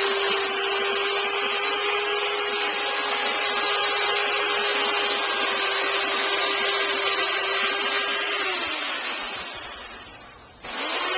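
Electric hedge trimmer motor running at a steady pitch, switched off about eight and a half seconds in and winding down over a couple of seconds, then started again near the end.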